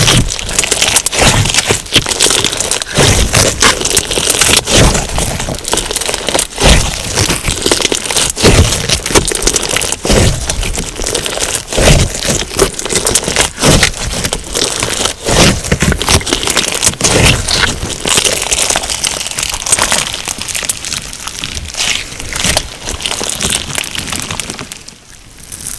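Crunchy slime mixed with sugar beads being squeezed and pressed by hand, giving a dense, continuous crackle of many small clicks and pops. It briefly falls quieter near the end.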